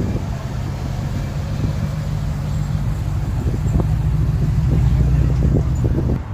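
Classic car engine running with a deep, low rumble that swells louder about four seconds in, then cuts off suddenly near the end.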